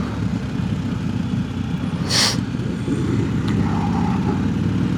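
BMW R1250GS boxer-twin engine running low and steady while the bike crawls in a slow queue of traffic. A short hiss is heard about two seconds in.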